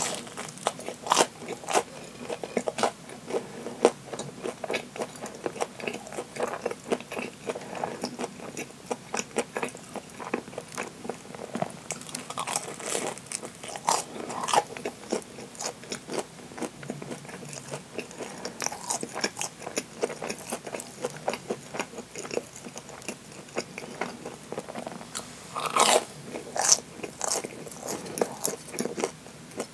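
Crunching and chewing of a deep-fried Japanese curry bread, its crisp crust crackling with each bite and chew, with a cluster of louder crunches near the end.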